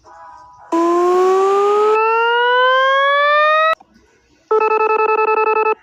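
Computer-synthesized tones from the Desmos graphing calculator's audio. A noisy, buzzy tone glides upward, turns into a clean rising tone after about a second, and cuts off suddenly with a click. After a short gap, a steady buzzing tone plays for about a second.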